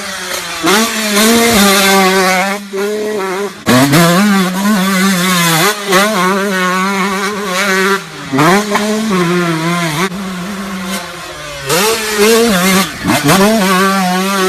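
Dirt bike engines revving hard: the pitch shoots up sharply several times and holds at high revs in between, with a few abrupt breaks.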